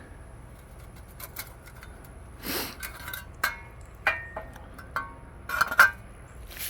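Metal grill grates and parts clinking and knocking against each other as they are handled and set down: a few scattered clinks, some ringing briefly, the loudest near the end.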